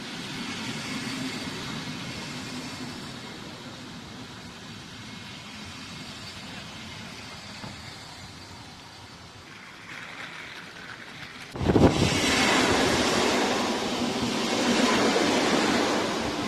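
Passenger train running, a steady rumble with a low hum. About 11.5 seconds in, a much louder rushing noise starts abruptly and continues.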